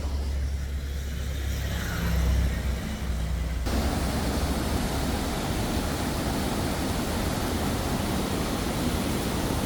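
A low rumble for the first few seconds, then, a little under four seconds in, the steady rush of a waterfall cuts in suddenly and carries on evenly.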